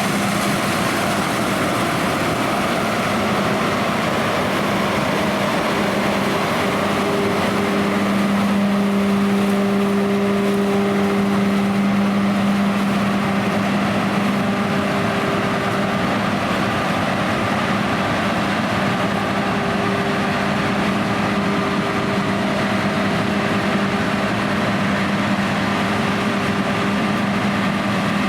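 John Deere X9 1100 combine harvester running steadily under load, a continuous engine hum with a drone of machinery noise that swells slightly about eight to twelve seconds in.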